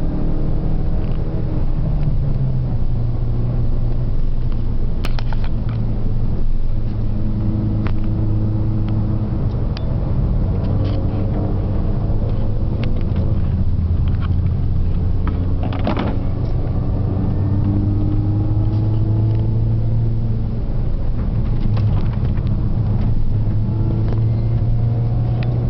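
Car engine heard from inside the cabin under hard acceleration, its pitch rising again and again through the gears over a heavy, steady rumble, with a few sharp clicks.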